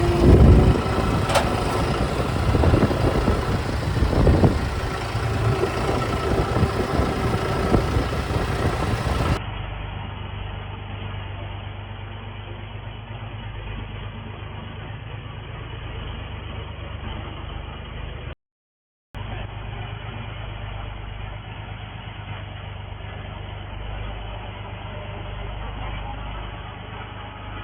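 A tractor engine running, loud and rough for about the first third, then a quieter steady low engine hum, broken once by a brief dropout a little after halfway.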